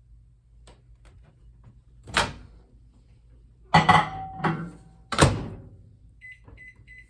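Microwave oven being worked: sharp knocks of the door and housing, keypad presses, then three short high electronic beeps near the end as it is set for another 15 seconds of heating.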